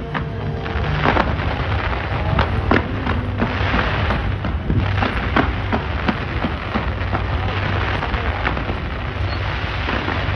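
Fireworks bursting in a rapid, continuous barrage: many sharp bangs over a dense crackling hiss.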